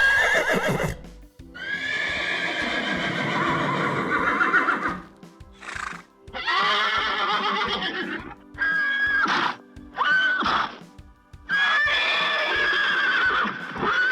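A run of loud animal calls, about seven of them: several long ones lasting two to three seconds and a few short ones, with brief pauses between.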